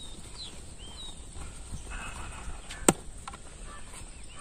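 Open-air ambience with birds giving short, scattered chirps, and a single sharp click about three seconds in.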